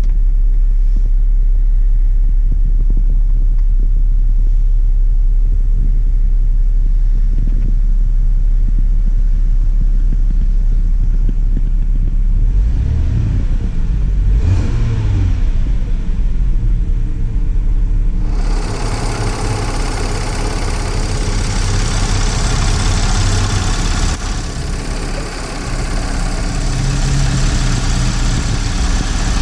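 A 2013 Audi Q7's 3.0-litre supercharged V6 idling. It is a low, muffled rumble as heard from inside the cabin, with a brief rise and fall in engine speed about midway. From about two-thirds of the way in it turns much louder and brighter, with a steady hiss over the rumble, as heard under the open hood.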